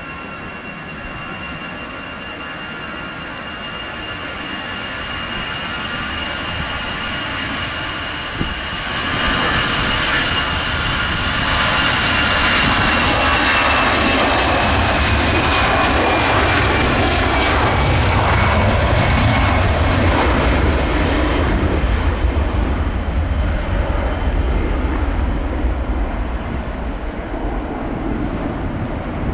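Jet airliner's engines passing, growing steadily louder to a loud peak, with a high whine that slides down in pitch as it goes by and a deep rumble that builds in the second half.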